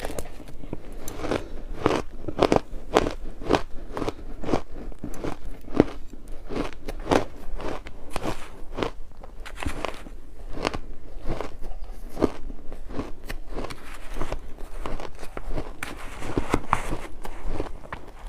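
Ice being bitten and chewed close to the microphone: a continuous run of sharp, irregular crunches and cracks, about two to three a second.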